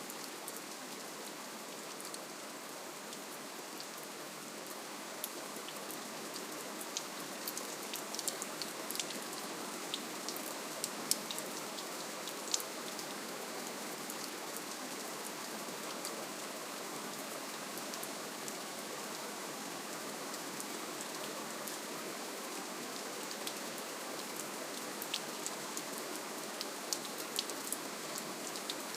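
Steady rainfall, an even hiss with scattered sharp drop clicks that come thicker in places.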